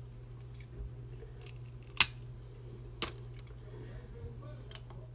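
Snow crab leg shells being cracked open: two sharp cracks about a second apart, with a few fainter clicks, over a steady low hum.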